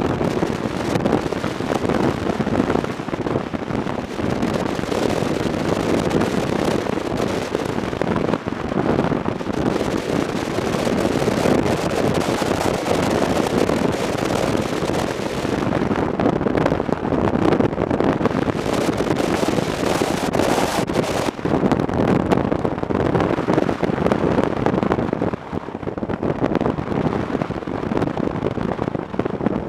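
Wind rushing and buffeting on the microphone of a motorcycle on the move, a steady crackling rush of noise that eases a little near the end.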